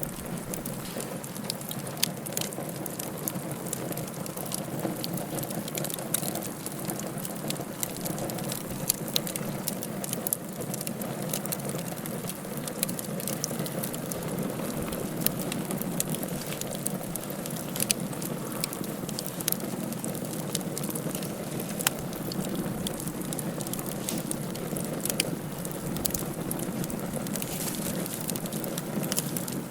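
Wood fire burning in a fireplace: a steady low rush with frequent sharp, irregular crackles and pops from the burning wood.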